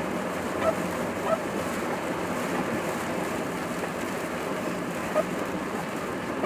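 A steady rushing of road and wind noise, heard from inside a moving car's cabin in stormy typhoon weather. Four short, sharp blips stand out above the noise.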